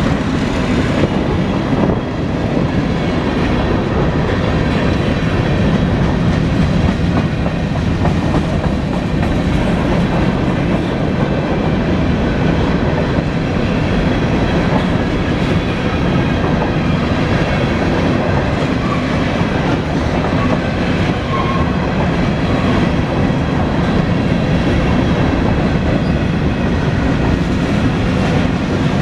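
A CSX local mixed freight train's cars rolling past on the track, steady and loud throughout.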